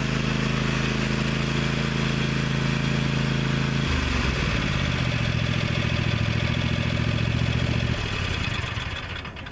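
Zero-turn riding mower engine running steadily, its note changing about four seconds in, then dying away near the end.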